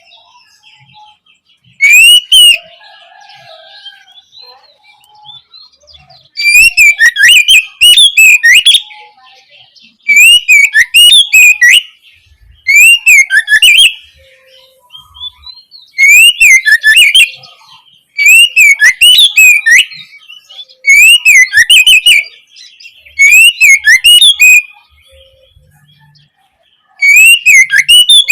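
Oriental magpie-robin singing in about ten short, loud bursts with brief pauses between them. Each burst is a run of rising-and-falling whistled notes mixed with quick high chatter.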